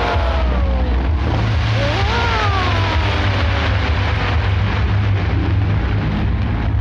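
Fireworks display bursting in rapid succession: dense crackling over a continuous low rumble.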